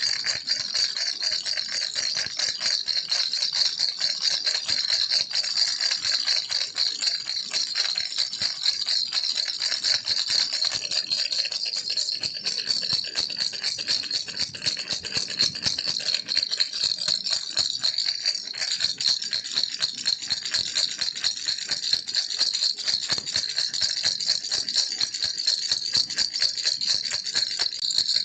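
Baby rattle shaken continuously: a dense, steady, high-pitched rattling without a break.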